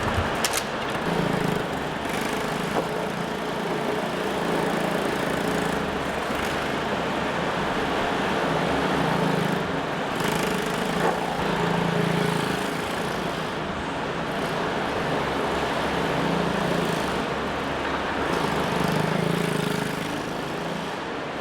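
Small 90 cc minimoto engine running on track, revving up and easing off again and again as the bike laps.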